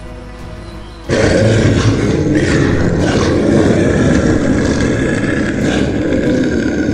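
Soft music, then about a second in a loud, drawn-out dinosaur roar sound effect cuts in abruptly and keeps going.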